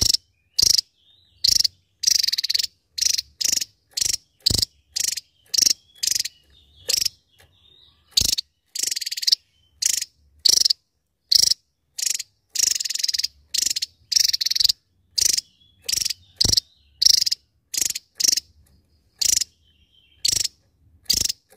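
Javan tesia singing: a rapid run of short, high-pitched bursts, about two a second, some drawn out into longer trills, with brief gaps between.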